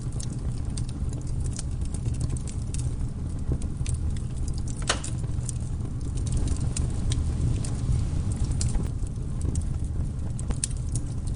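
Campfire crackling: irregular sharp pops and snaps of burning wood over a steady low rumble, with one louder, longer snap about five seconds in.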